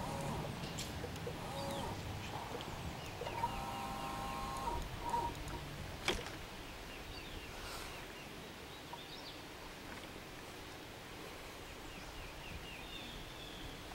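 Birds calling in woodland: a rapid chirping trill about two seconds in and again near the end, and a lower, pitched call around four seconds in. A few sharp clicks or snaps sound between about three and six seconds.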